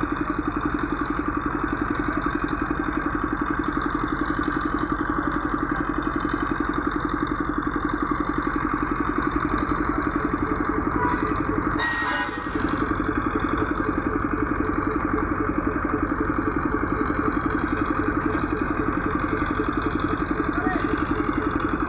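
An engine idling steadily with a fast, even pulse, briefly interrupted about halfway through.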